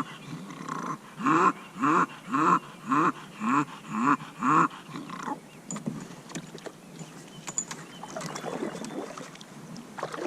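A bulldog vocalizing in a run of short calls, about two a second, each rising then falling in pitch. The calls stop about five seconds in, leaving faint clicks and water noise from the kayak.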